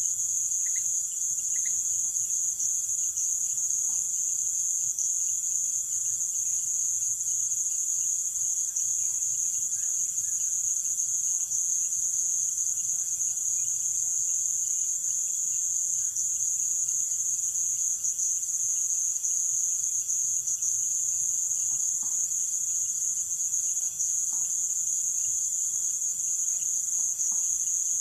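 Nighttime insect chorus in the Amazon rainforest: a continuous, even, high-pitched shrilling with a fainter steady tone beneath it, and a few short chirps in the first two seconds.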